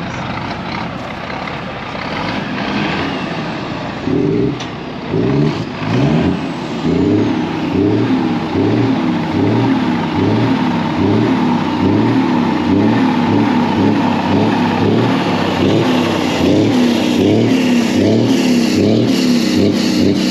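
A truck's diesel engine being revved and let back over and over in a steady rhythm, about once a second, starting about four seconds in after a few seconds of running.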